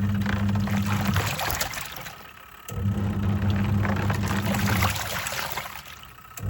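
Twin-tub washing machine on its wash cycle: the motor hums in spells of about two seconds, stopping briefly between them as the pulsator reverses, while the water and clothes slosh in the tub.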